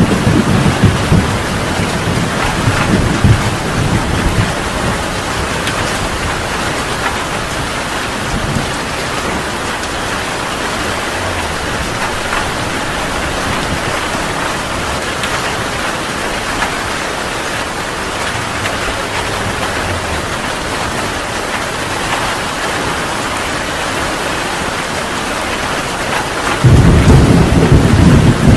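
Heavy rain pouring steadily, with thunder rumbling low at the start and building again near the end.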